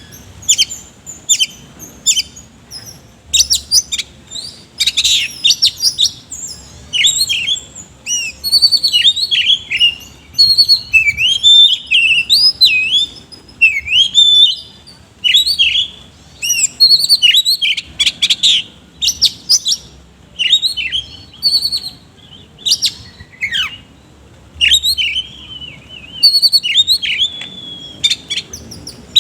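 Oriental magpie-robin (kacer) singing loudly and nearly without a break: rapid, varied phrases of sharp chirps, whistles and down-slurred notes, in bursts with short pauses between them, filled with harsh mimicked phrases (isian kasar).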